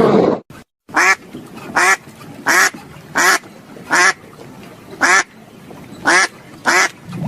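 A duck quacking eight times in a steady series, short single quacks about one a second.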